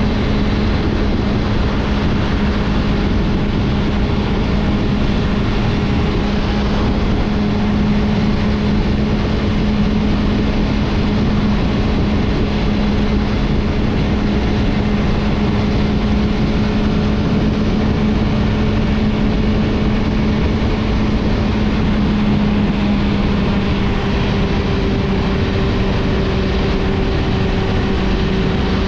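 Suzuki GSF650 Bandit's inline-four engine through an Akrapovic exhaust, holding a steady cruising note under a constant rush of wind and road noise. The engine pitch drops slightly about five seconds before the end.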